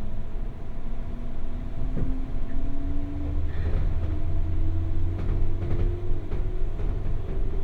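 Interior running sound of a JR 201 series chopper-controlled electric train's motor car pulling away: a motor whine rising steadily in pitch over the rumble of wheels on rail, with a few sharp clicks from the track.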